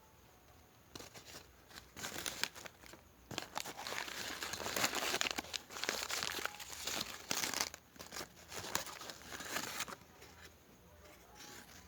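Packaging being handled: crinkling and rustling in irregular bursts with short crackles, loudest in the middle and dying down near the end.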